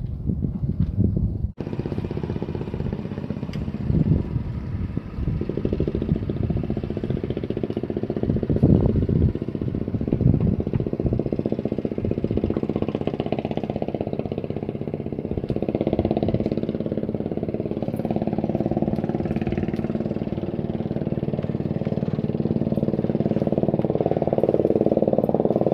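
An engine running steadily, growing slightly louder toward the end.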